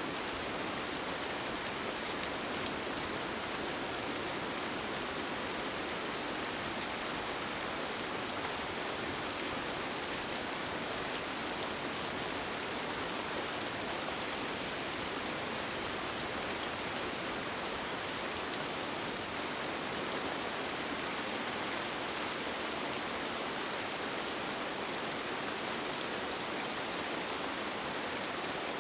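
Steady rain falling on a tent, an even hiss with faint single drops ticking through it and no change or sudden sounds.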